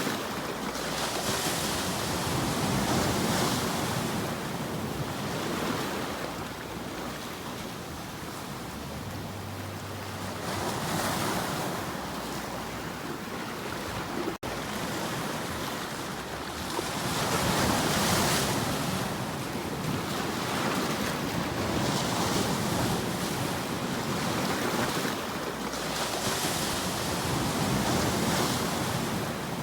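Ocean waves washing onto a shore, the surf swelling and falling back every few seconds, with a momentary break in the sound about halfway through.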